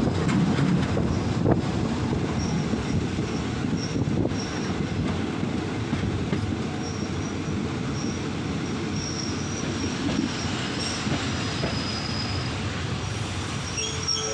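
Passenger train running on the rails, heard from its open doorway: a steady rumble of wheels on track with faint, intermittent high wheel squeal, easing slightly as the train slows into a station.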